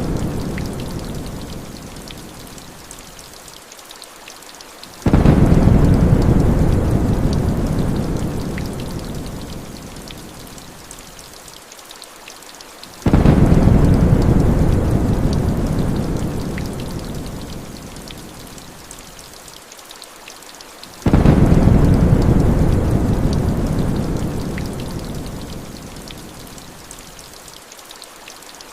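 Heavy rain hissing steadily, with rolling thunder. Three times, about eight seconds apart, a low rumble breaks in suddenly and dies away over several seconds.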